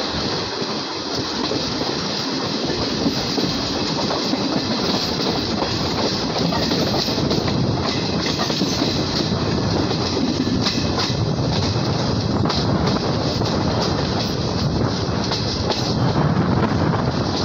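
ICF passenger coach running at speed: a steady rolling rumble and rush from the wheels on the rails, with a scattered run of clacks in the middle as the wheels pass over rail joints and points.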